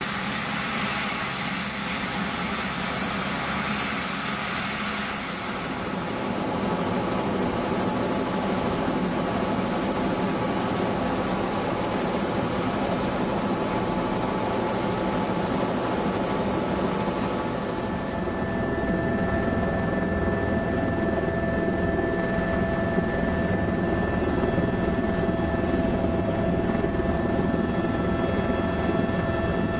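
Helicopter in flight: its engine and rotor running steadily. About eighteen seconds in, the hiss thins out and a few steady tones come forward.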